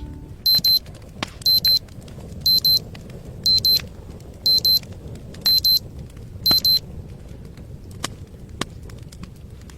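Electronic alarm beeping in quick double beeps, seven pairs about a second apart, high-pitched, then stopping; a couple of faint clicks follow near the end.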